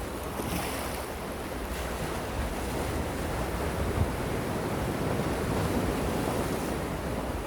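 Gentle sea waves washing steadily on the shore, with a low rumble of wind on the microphone.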